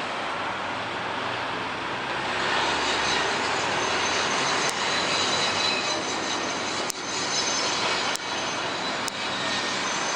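Heavy truck traffic at a street intersection: a steady rush of engine and tyre noise as trucks pass and turn, with a few brief clicks in the second half.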